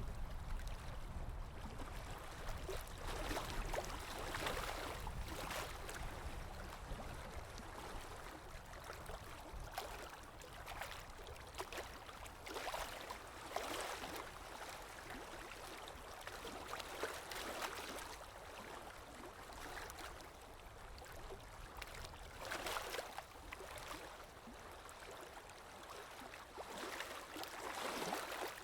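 Water lapping with wind: an unbroken wash of water noise with soft, irregular swells and splashes every second or two.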